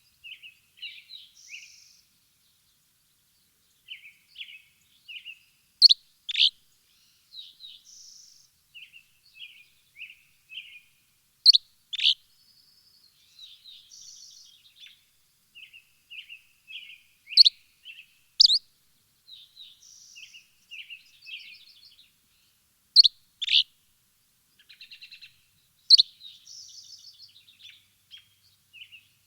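Small songbirds chirping and twittering in short, high phrases, with a pair of loud, sharp chirps coming back about every six seconds.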